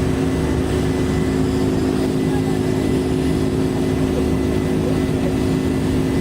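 Steady cabin noise of a Boeing 747-400 in its climb after take-off, heard inside the upper-deck cabin: the drone of its GE CF6-80C2 turbofans at climb thrust and rushing airflow, with a low rumble and a steady hum.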